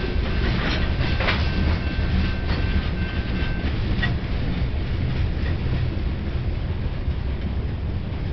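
Covered hopper cars at the tail of a BNSF freight train rolling past, their wheels clacking over rail joints over a steady low rumble, with a faint steady high-pitched tone in the first few seconds. As the last car goes by, about halfway through, the clacks stop and only the low rumble remains.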